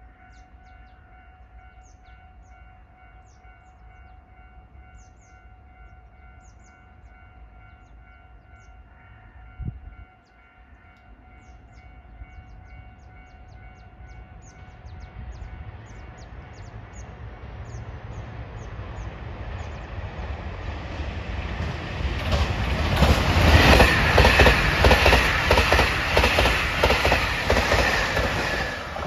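Kiha 261 series diesel limited express passing through a station at speed. It is faint at first, grows steadily from about halfway and is loudest over the last seven seconds as the cars go by close, with wheels clattering over the rails.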